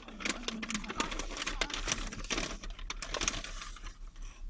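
Crinkling and rustling of food packaging, a bag or wrapper, handled in irregular crackles as a bought breakfast roll and pastry are taken out and shown.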